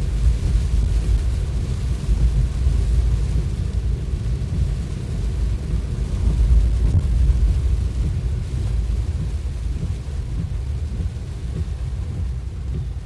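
A vehicle driving through heavy rain: a steady, deep rumble of engine and road noise under an even hiss of rain and spray.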